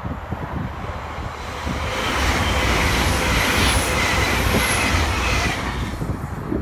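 GWR Class 802 bi-mode passenger train passing at speed. A rush of wheel and air noise swells over about two seconds, holds as the coaches go by with a faint high whine, and fades away near the end.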